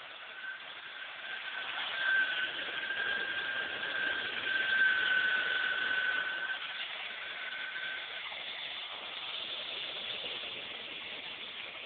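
Hoover WindTunnel Air bagless upright vacuum cleaner running: a steady rush of air with a thin, high motor whine over it. The whine drops out about eight seconds in while the rushing continues, and the sound swells and eases as the vacuum works.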